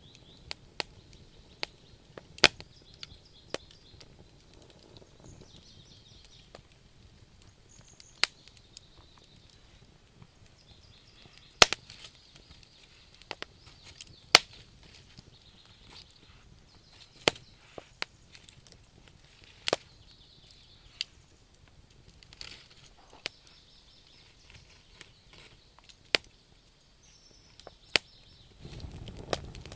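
Wood campfire crackling, with sharp pops and snaps at irregular intervals over a low hiss of burning logs. Near the end the low sound of the flames grows louder.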